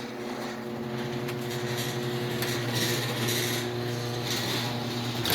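LiftMaster 3255 garage door opener running as it lowers the door: a steady motor hum with mechanical noise from the drive and door over it.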